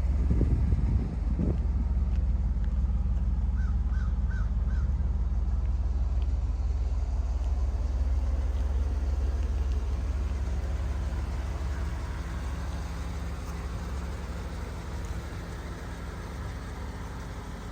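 1986 Pontiac Firebird Trans Am's V8 engine running with a low, steady exhaust rumble. It is blipped briefly about a second in, and the sound slowly fades over the second half. A bird chirps a few times.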